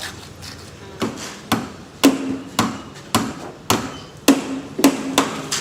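Hammer blows struck repeatedly, about two a second, on construction formwork; several blows leave a short low ring.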